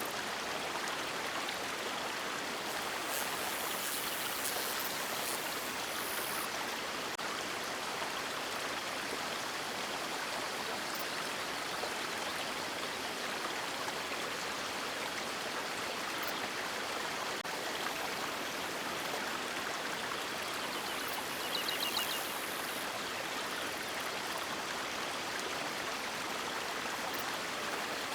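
River water running steadily, an even rushing wash with no let-up. About three-quarters of the way through, a brief faint high ticking sounds over it.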